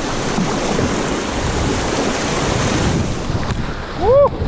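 Steady rush of whitewater as a kayak runs river rapids, with wind noise on the microphone. A short whooping "woo!" shout about four seconds in.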